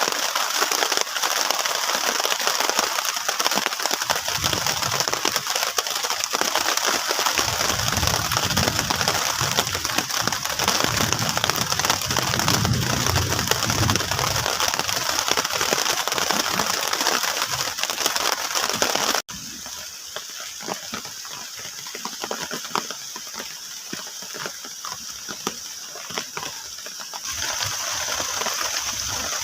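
Heavy rain pattering and crackling on a plastic tarp shelter. It drops suddenly to a lighter level about two-thirds through, then grows louder again near the end.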